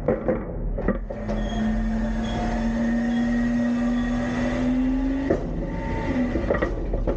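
Hydraulics of an Autocar front-load recycling truck with a Heil Freedom body, whining for about four seconds in a slightly rising tone over the running engine as the arms work a container. Metal clanks and bangs come at the start and again near the end.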